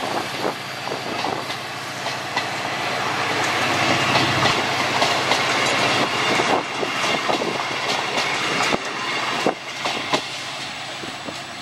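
Passenger coaches of a departing train rolling past at close range: a steady rush of wheel and rail noise with repeated clickety-clack of wheels over rail joints. It eases off near the end as the last coach goes by.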